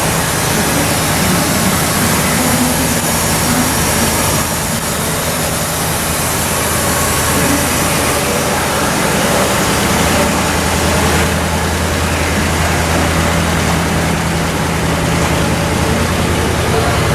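1958 Chrysler Imperial's 392 cu in Hemi V8 idling steadily, with an even firing rhythm.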